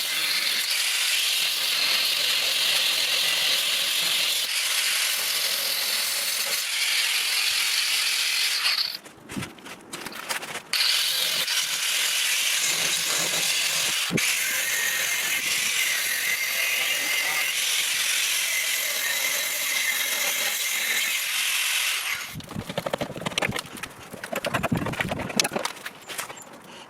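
Power tool cutting rusted steel out of a Land Rover Discovery 2 chassis leg: a steady, high hissing cut that stops briefly about nine seconds in and resumes, then gives way to irregular rattling and crackling in the last few seconds.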